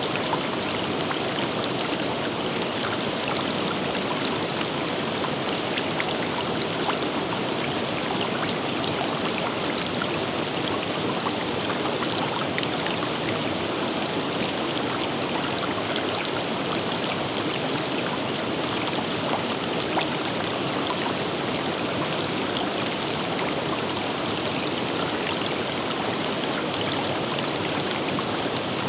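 River water flowing steadily, a continuous rushing with many small splashes and trickles.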